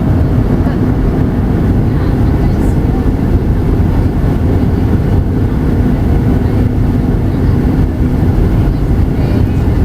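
Boeing 737-800 cabin noise heard from a window seat: the steady rumble of the CFM56 engines and the airflow past the fuselage, with a steady low hum running through it.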